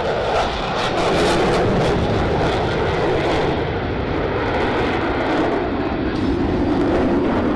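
Blue Angels F/A-18 jets flying past: a loud, steady jet rush with crackle in the first few seconds, its pitch sinking slowly as they go by.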